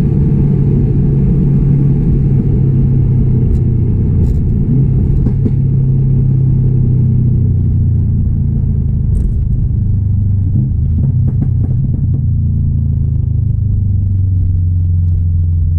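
2016 Subaru WRX STI's turbocharged flat-four engine running under way, a steady low rumble whose pitch sinks slowly as engine speed falls off. A few faint clicks sound over it.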